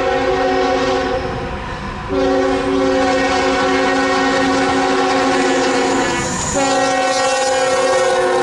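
Diesel freight locomotive's air horn sounding long blasts, with brief breaks about two seconds in and again about six and a half seconds in, over the rumble of the train.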